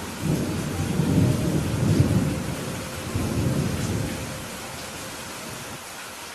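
Steady rain with a low rumble of thunder that rolls in just after the start, is loudest about one to two seconds in, and fades out by about four seconds.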